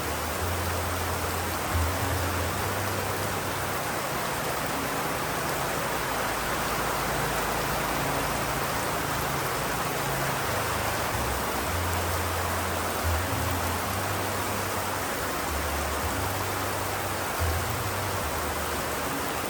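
Steady rain, an even dense hiss, with a low rumble that swells and fades underneath it and a few brief louder moments.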